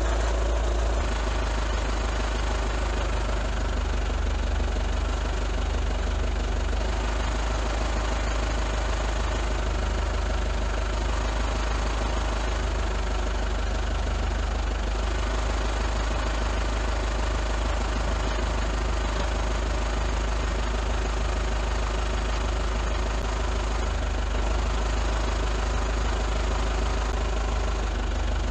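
A steady low engine-like drone that holds unchanged throughout.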